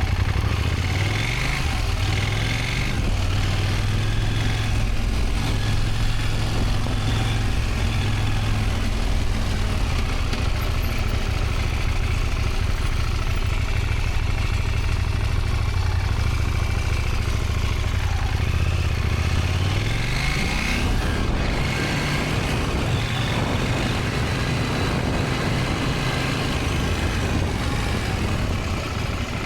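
Motorcycle engine running at low, steady revs, its pitch climbing as it accelerates near the start and again sharply about twenty seconds in, with an even rushing noise over it.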